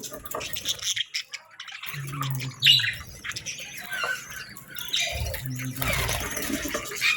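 Small birds chirping and squawking in quick, irregular bursts.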